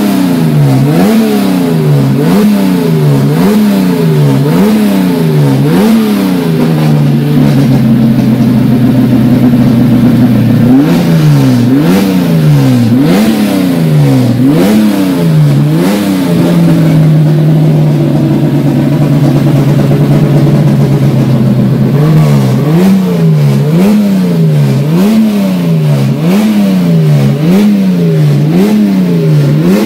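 Chevrolet straight-six Turismo Carretera race engine, Collino-built and fed by a twin-choke downdraft carburettor, revved over and over in quick blips about once a second. Twice it is held at a steady higher speed for several seconds before the blipping resumes.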